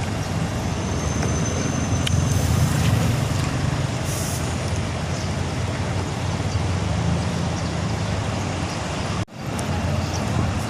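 Diesel bus engine running steadily with a low rumble, with short bursts of air hiss about two and four seconds in. The sound cuts out for an instant about nine seconds in.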